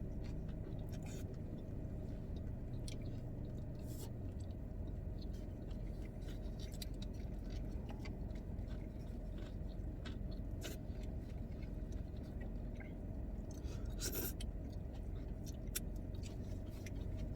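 A person chewing and biting into food close to the microphone, with scattered small wet clicks and crunches over a steady low hum.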